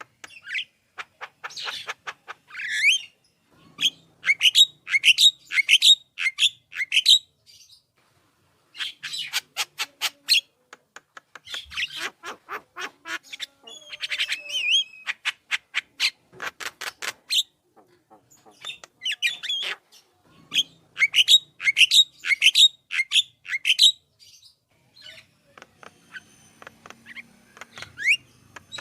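Javan myna singing in rapid runs of sharp, clicking notes mixed with rising whistles, in bursts a second or two long separated by short pauses.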